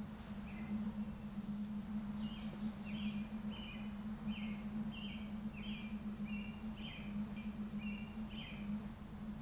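A small bird chirping in a quick series of short, falling notes, about two a second, over a steady low hum.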